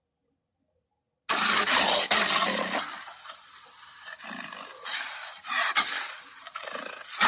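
Lion roar sound effect: a loud, rough roar starts suddenly about a second in and fades over a couple of seconds. Shorter growls follow, and another loud roar begins near the end.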